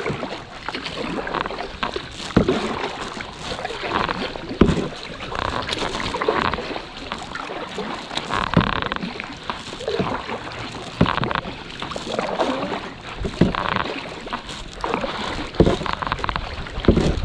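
Kayak paddle strokes dipping and splashing in the river at a steady pace, about one every second or so, with scattered sharp knocks.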